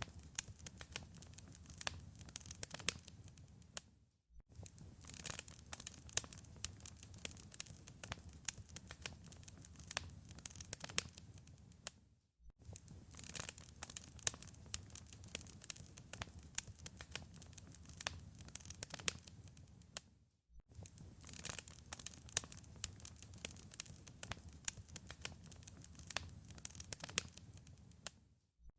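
Wood fire in a fireplace crackling, with many irregular sharp pops and snaps over a low rumble. The sound drops out briefly about every eight seconds.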